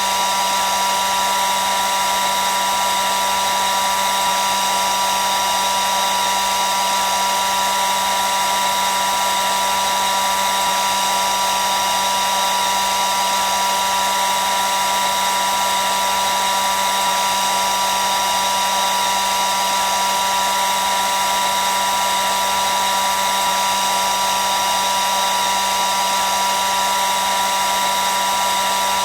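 Hair dryer running steadily on one setting: an even rush of air with a constant high whine from the fan motor.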